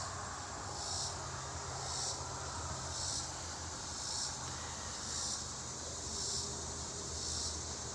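An insect calling in short high chirps, about one a second, evenly spaced, over a steady low hum.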